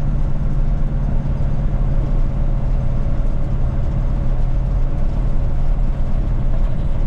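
A 1980 Chevy K20 pickup driving slowly on a snowy gravel road: a steady low engine and drivetrain drone with a faint constant whine and rumbling tire and road noise.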